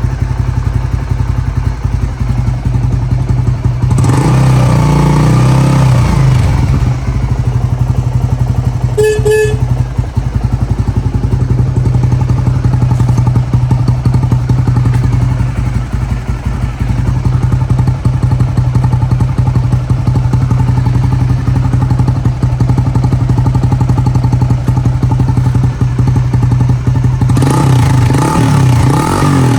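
Honda GB250 Clubman's air-cooled single-cylinder engine idling steadily. It is revved up briefly about four seconds in and again near the end. A short beep sounds about nine seconds in.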